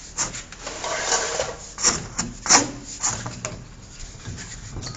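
Plastic drain pipe and fittings being handled: a rubbing, scraping stretch about a second in, then several sharp clicks and knocks, the loudest about two and a half seconds in.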